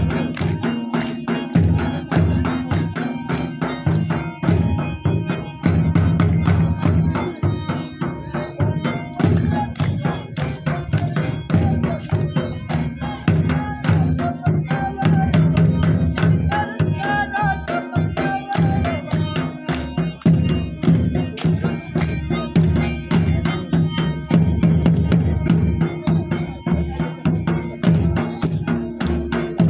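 Live folk music for an attan dance: a drum beaten in a fast, steady rhythm, with a wavering melody over it.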